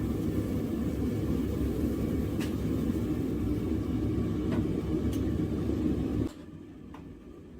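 A blacksmith's forge running with a steady low roar, which cuts off abruptly about six seconds in; a few faint clicks follow.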